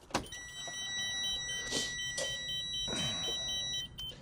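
Dashboard warning signals at key-on in a diesel motorhome cab: a steady tone that stops near the end, and a rapid beep repeating about four or five times a second. The beep is the low-air warning, sounding because the air brake pressure is down after the truck has stood for a day.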